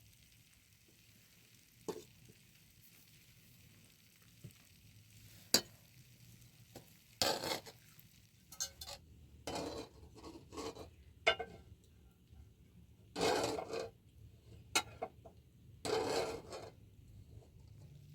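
A cooking utensil scraping and knocking against a pan in a series of short strokes, with sharp clicks between them.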